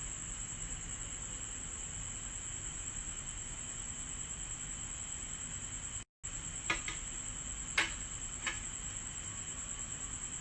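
Steady high-pitched chirring, broken by a short gap of silence about six seconds in. After the gap come three light, sharp clicks about a second apart.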